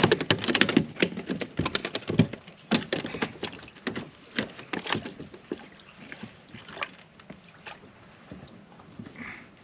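A hooked crappie being brought in and landed in a kayak: a quick run of clicks, knocks and splashes, loudest at first and thinning out over the last few seconds.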